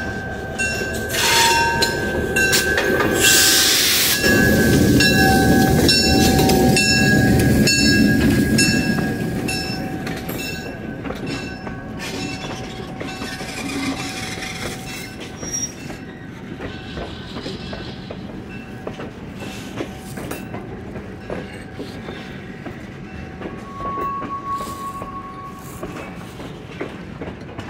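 A diesel-hauled passenger train passing close by. The locomotive's engine is loud for the first several seconds and then fades. The passenger coaches then roll past with repeated clicks of wheels over rail joints and a steady high squeal from the wheels.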